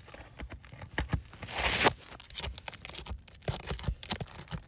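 Brittle asphalt shingle being pried up: irregular crackling and clicking, with a louder tearing rasp about a second and a half in. The shingle is stuck down by heavy mat transfer, so it tears instead of lifting cleanly.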